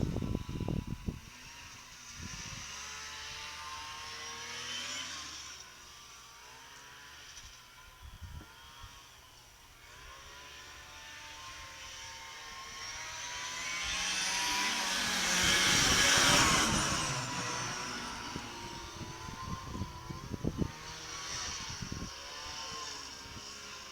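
Turbocharged 1988 Polaris Sprint snowmobile engine running at a distance, then approaching, passing loudest about two-thirds of the way in and fading away. A few short thumps come at the start and near the end.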